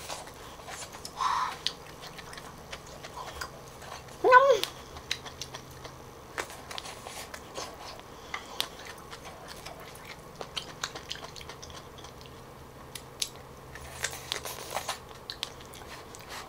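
Close-miked chewing and biting of thick grilled asparagus spears with melted cheese, heard as many small wet mouth clicks and soft crunches.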